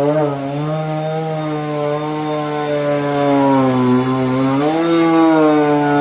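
Bissell CleanView Compact upright vacuum running with a steady motor drone. Its pitch sags a little a few seconds in, then rises again about five seconds in.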